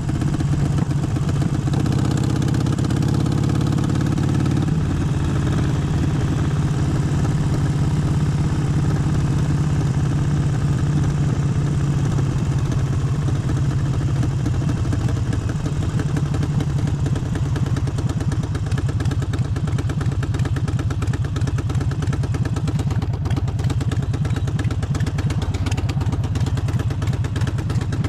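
Harley-Davidson Forty-Eight's 1200 cc air-cooled V-twin running steadily, its note shifting about five seconds in.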